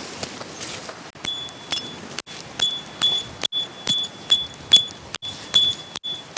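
A hammer driving a metal tent peg, ringing clinks at the same pitch about twice a second over wind noise.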